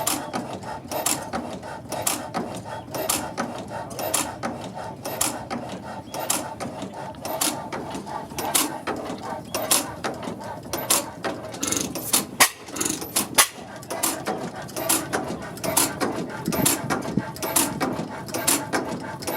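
Old stationary engine running, its valve gear clicking and clattering about twice a second.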